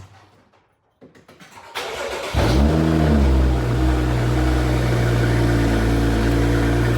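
BMW N55 turbocharged straight-six, fitted with an aftermarket downpipe and with its exhaust valves open, cranking on the starter, catching about two and a half seconds in, flaring briefly in revs and settling to a steady idle.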